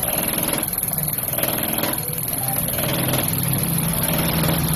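Ford Ranger 2.2L diesel engine running steadily, with a slight rise in pitch about three seconds in.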